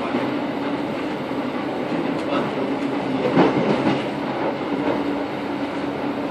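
Thameslink commuter train running, heard from inside the carriage: a steady rumble of wheels on track under a constant low hum, with a louder clatter a little past halfway.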